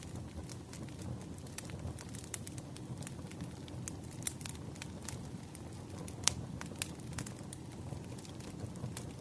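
Firewood burning: a steady low rumble of flames with scattered sharp crackles and pops, the loudest about six seconds in.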